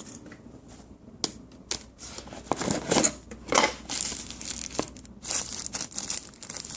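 Plastic packaging crinkling and rustling in the hands, with a few sharp clicks, as the phone's accessories are lifted from the box and unwrapped.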